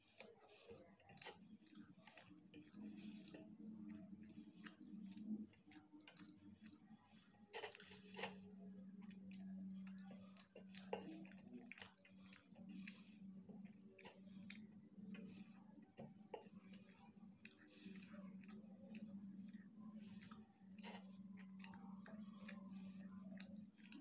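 Close-miked chewing of fried rice, with many small clicks and crackles from the mouth and from fingers picking rice off a steel plate, over a low hum.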